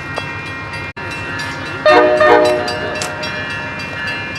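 Amtrak diesel locomotive running at a standstill, with a short horn blast about two seconds in.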